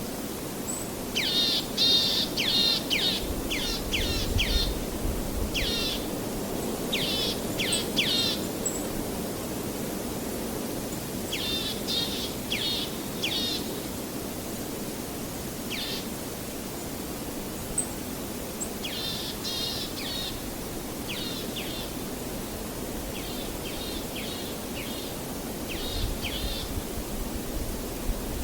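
A songbird calling in runs of quick, repeated, downward-sweeping notes, a burst every few seconds, over a steady low rushing of waves.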